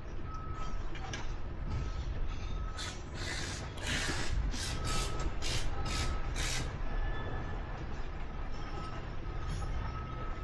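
A vehicle's reversing alarm beeping steadily, about once a second, over a low engine rumble. In the middle there is a run of five or six short hissing bursts.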